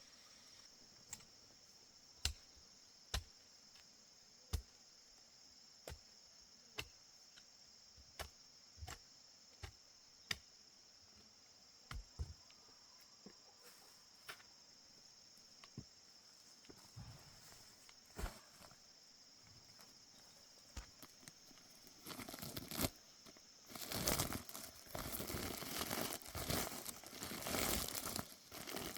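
Sharp single knocks, about one a second, over a steady high-pitched drone. About three-quarters of the way through, a louder stretch of tearing and crumpling rustle takes over.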